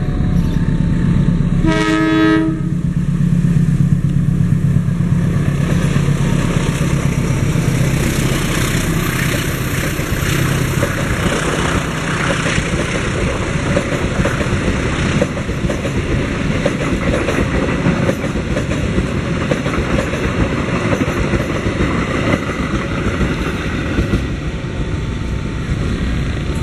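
Diesel-electric locomotive hauling a passenger train past a level crossing: a short horn blast about two seconds in, the engine's low steady drone, then the carriages rumbling and clattering past on the rails. A level-crossing warning alarm beeps in two alternating notes just after the start and again near the end.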